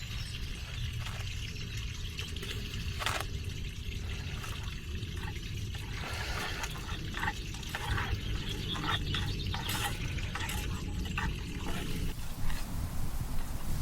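Water trickling and dripping, with scattered small splashes, over a steady low rumble.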